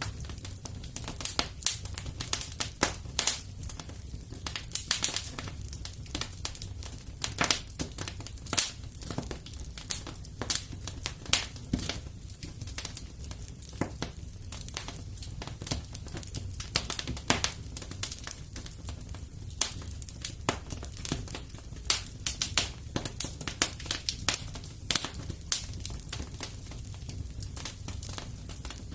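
Fire in a fireplace crackling: irregular sharp snaps and pops over a low, steady rumble.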